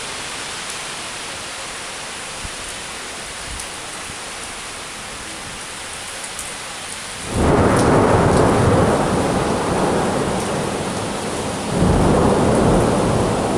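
Rain falling steadily, then about seven seconds in a loud crack of thunder breaks out suddenly and rolls on for several seconds, with a second surge of rumbling near the end.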